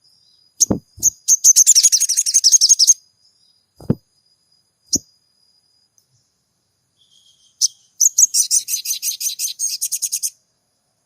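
Sogon bird calling: two harsh, rapid chattering rattles of about two seconds each, with a few single sharp call notes between them. A thin, steady high whine runs under the first half.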